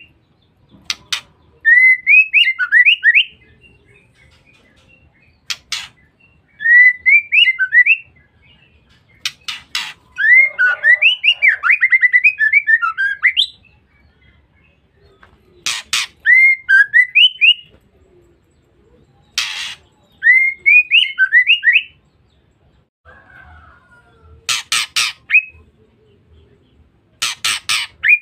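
Female white-rumped shama (murai batu) calling: short phrases of quick rising and falling chirps repeated every few seconds, alternating with brief harsh rasping notes.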